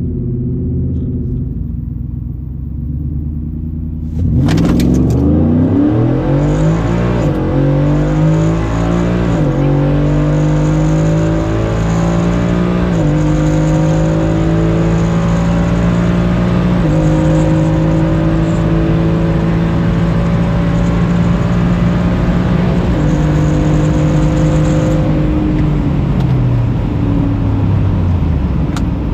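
The 2018 Ford F-150's naturally aspirated 5.0 L V8, through an MBRP cat-back exhaust, idles, then launches at wide open throttle about four seconds in. The engine note climbs through the gears, dipping at each of about four upshifts, and winds down near the end as the throttle comes off.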